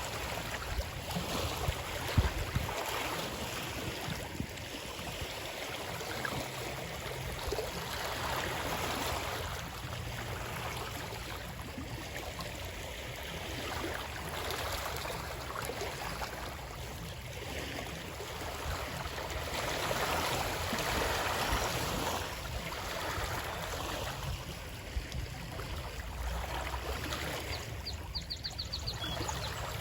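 Running water, a steady rushing that swells and ebbs every few seconds, with a few sharp clicks about two seconds in and a brief rapid high ticking near the end.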